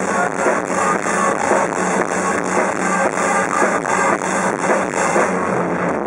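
Rock band playing live at full volume, with drums and cymbals keeping a steady driving beat of about four hits a second.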